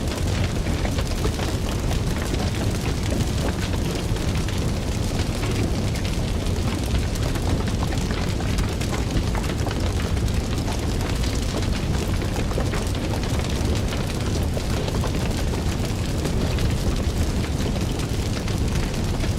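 Fire burning with a steady low rumble under dense, continuous crackling.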